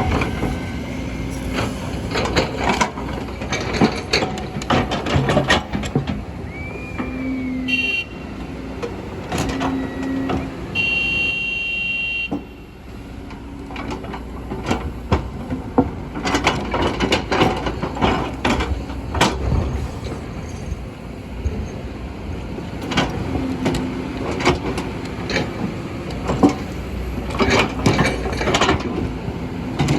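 Kobelco excavator digging into a hillside: a steady diesel engine rumble with many irregular clanks and knocks of the bucket against rock and soil, and brief high metallic squeals about 7 to 12 seconds in.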